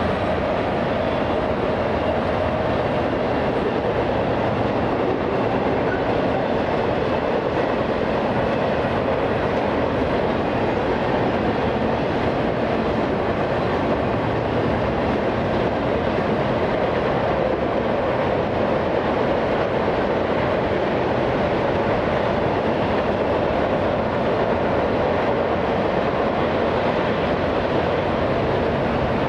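Railroad cars of a passing train rolling by on the rails, a steady, even noise of wheels on track that does not let up.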